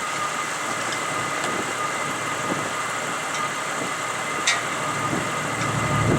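Inside the cabin of an SUV driving through deep snow: steady engine and road noise with a constant high whine and a few faint clicks.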